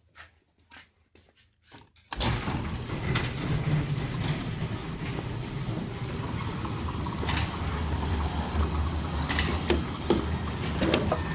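Large shop door being opened: after a few faint clicks, a steady rumbling, rattling noise starts suddenly about two seconds in and keeps going, with occasional knocks.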